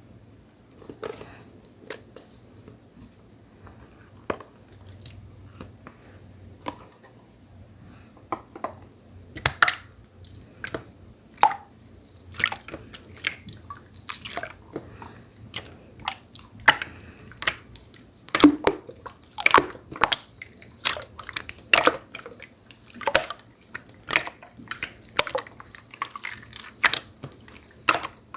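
Water-jelly slime being squeezed and played with by hand, making short wet squishing pops and clicks, sparse at first and coming quicker and louder from about nine seconds in.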